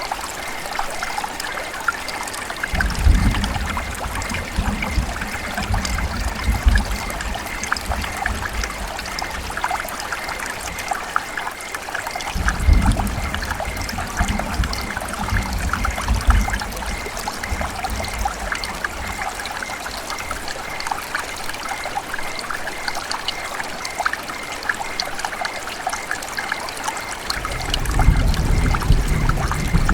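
River water trickling and splashing steadily, with a dense patter of small splashes. A low rumble swells in and fades three times under it.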